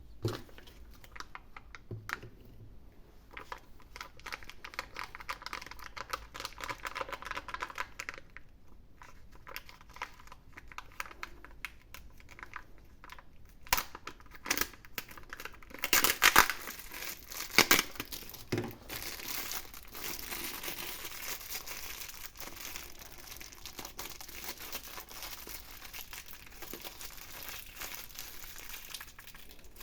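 Foil wrapper of a chocolate surprise egg being torn open and crinkled by hand, in irregular crackles. It gets louder and sharper about halfway through, then turns into steady dense crinkling.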